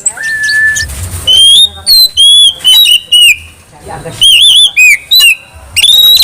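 Oriental magpie-robin (kacer) singing loudly: a long steady whistle near the start, then bursts of rising and falling whistled notes and quick warbled trills.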